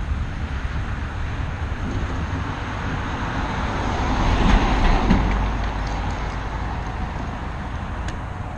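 Wind rumbling on the microphone of a hand-held action camera during a bike ride, mixed with a rushing road-and-traffic noise that swells and fades about halfway through.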